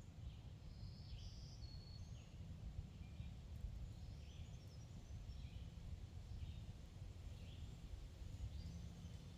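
Songbirds chirping and singing faintly, many short calls in quick succession, over a steady low rumble.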